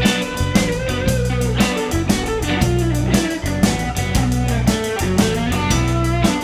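Electric guitar solo with bent, sliding notes, played live over a rock band's bass guitar and drum kit.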